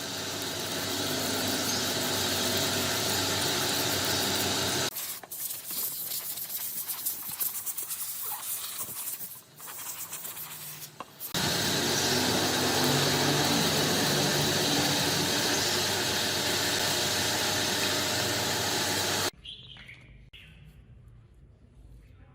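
A motorized tool runs steadily in two long bursts, about five and eight seconds long. Quieter scraping and clicking handling noise comes between them. The second burst cuts off suddenly near the end.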